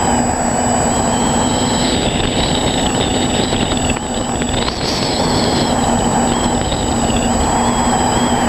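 Quadcopter's electric motors and propellers whining steadily, heard from the craft itself, over a constant rush of air noise. The high whine wavers up and down a little as the throttle changes, dipping briefly about halfway through.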